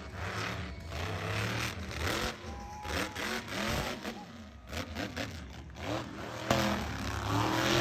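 Monster truck engine running and revving over a loudspeaker voice, with arena noise. About six and a half seconds in the engine suddenly gets louder and holds a steady pitch.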